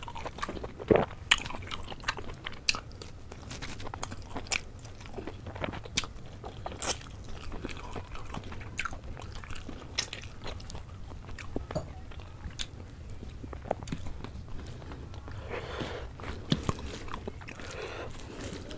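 A person eating rice and chicken curry by hand, close-miked: chewing and wet mouth sounds with irregular sharp smacks and clicks.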